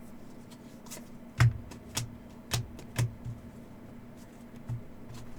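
Trading cards being handled on a table: about six short, sharp taps and clicks, the loudest about a second and a half in, over a faint steady hum.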